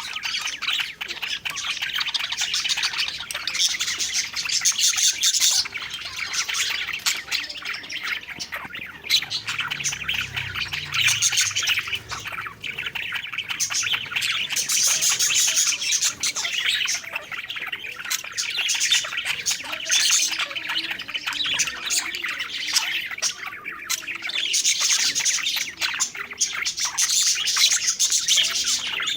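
Budgerigars (parakeets) chattering and warbling, a dense stream of high chirps and twitters.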